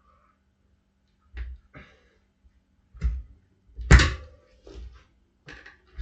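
Dirt bike tire being levered onto its rim with tire irons: a handful of separate knocks and thunks as the irons and rim are worked. The loudest comes about four seconds in, with a brief metallic ring after it.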